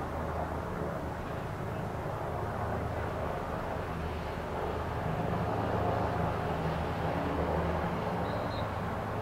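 Steady low engine rumble with a hum and a noisy wash, swelling slightly about five seconds in.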